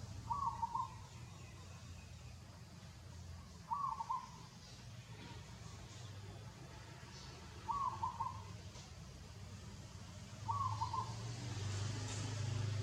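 A bird's short call of a few quick notes, repeated four times at intervals of about three to four seconds, over a low steady rumble.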